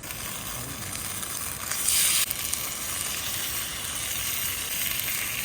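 Food sizzling as it fries on hot metal, a steady hiss with a louder surge of sizzling about two seconds in.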